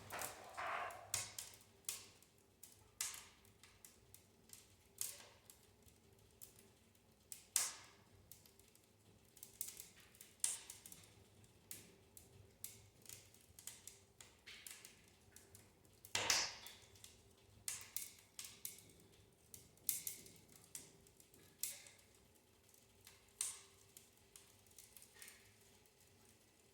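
Wood fire crackling in a fireplace: faint, irregular sharp pops and snaps, with a couple of louder cracks.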